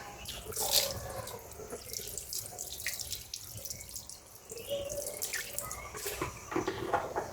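Water running and splashing unevenly, with a few louder splashes.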